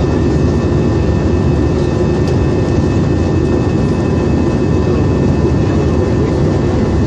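Steady cabin noise inside an Airbus airliner in flight after takeoff: a loud, even rumble of jet engines and rushing air, with a few faint steady high whines on top.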